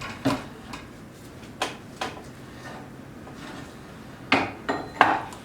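Metal parts clunking and clinking as a welded and turned-down shaft is fitted back into a garden tractor's gear case: a handful of separate knocks, the loudest two near the end.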